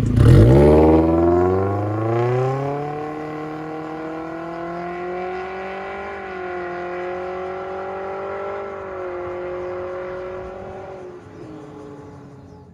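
Toyota Corolla Altis's 2ZR-FE 1.8-litre four-cylinder through an MS-R valved cat-back exhaust, accelerating with the pitch climbing for about three seconds, then holding a steady drone that fades out near the end.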